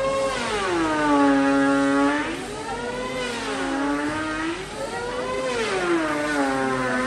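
A power tool's motor working the wood, its pitch dropping under load and rising again three times.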